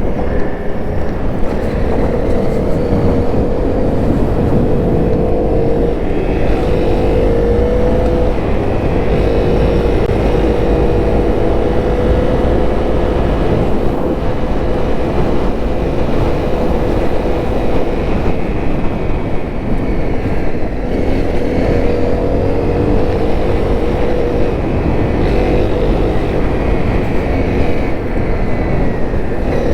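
Honda CRF250L's single-cylinder four-stroke engine running under way, its pitch rising and falling with the throttle, over a steady low rumble.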